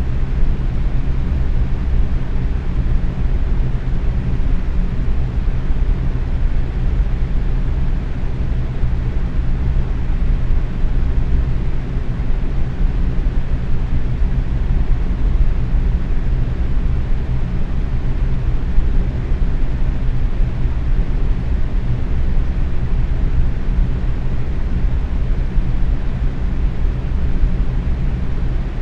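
Box fan running steadily at medium speed: a continuous low whoosh of moving air with a faint steady hum from the motor.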